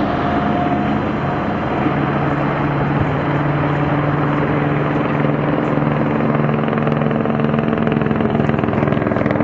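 Helicopter flying overhead: a loud, steady drone of rotor and engine, with a fast regular chop.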